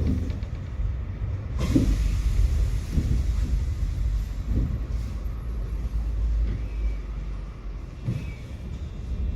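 Tram running along its line: a steady low rumble with several dull knocks at irregular intervals.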